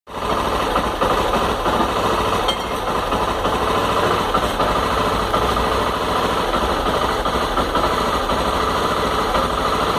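Honda XRE motorcycle's single-cylinder engine running steadily at idle. It is making the strange noise that the owner links to an unstable, hunting idle and stalling.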